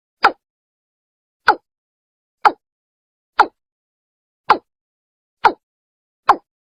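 Watercock (Gallicrex cinerea) calls in a lure recording: a steady series of short, hollow notes, about one a second and seven in all, each dropping slightly in pitch, with no background noise between them.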